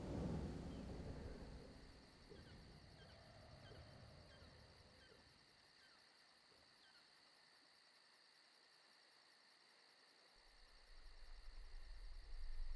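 Faint night chorus of crickets chirping steadily, with a low rumble rising near the end.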